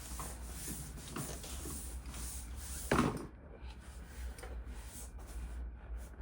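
Light knocks and clatter of small hard objects being handled, with one louder knock about three seconds in, over a low steady hum.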